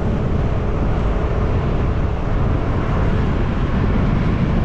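Motorcycle running at riding speed, a steady low rumble mixed with wind buffeting the microphone.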